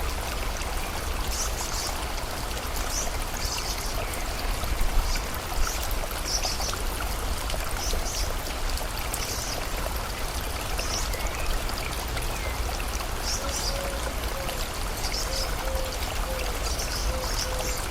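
Steady rushing of stream water, with a high chirp repeating about once a second above it. From about two-thirds of the way through comes a series of short, low calls.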